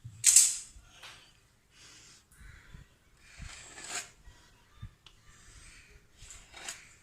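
A round lid pressed and scraped through rolled-out maida dough on a board to cut rounds, giving short scraping rasps: the loudest at the start, others near the middle and near the end.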